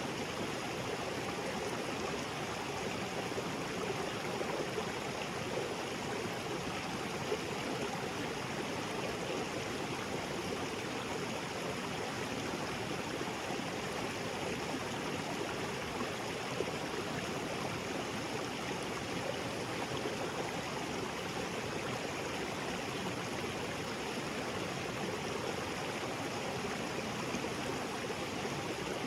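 Small waterfall splashing into a creek, a steady, even rush of water with no breaks.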